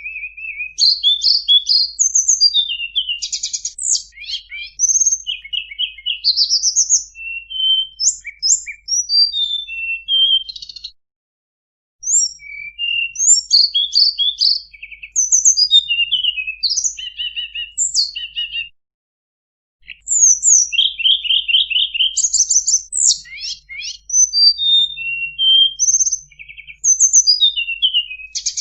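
Tledekan gunung singing a rapid, varied song of high chirps, whistled sweeps and trills, full of borrowed song phrases. The song breaks off briefly twice.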